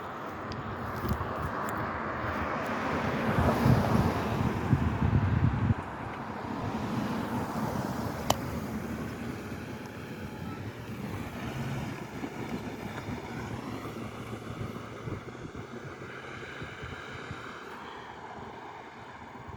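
A road vehicle passing by, building to its loudest about four to six seconds in and then dropping away quickly, over outdoor wind noise. There is a single sharp click about eight seconds in.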